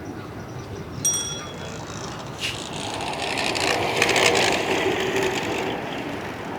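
Outdoor ambience: a short bell-like ring with high overtones about a second in, then a vehicle passing by, its noise swelling to a peak around the middle and fading away.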